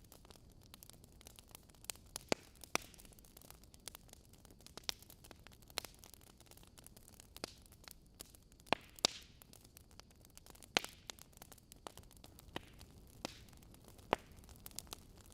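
Burning logs in a fireplace crackling: irregular sharp pops and snaps over a faint steady hiss, with the loudest pops a little past the middle.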